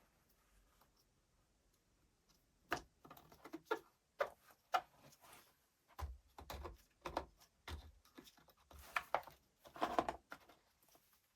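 Irregular clicks, taps and light knocks of hard tool parts being handled and fitted by hand, starting a couple of seconds in and coming thick and fast after that. There is no motor running.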